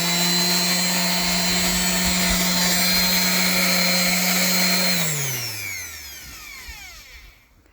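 Electric sander's motor running steadily with a high whine, then switched off about five seconds in and spinning down with a falling pitch.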